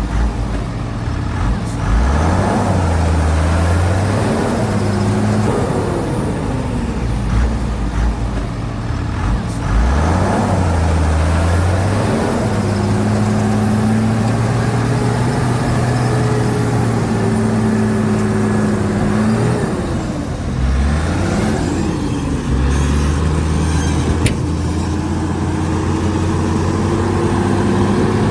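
Heavy diesel engine of a Shantui DH17C2 bulldozer working under load. Its pitch rises and falls as it revs and eases off, with a higher whine that slides up and down over the engine note.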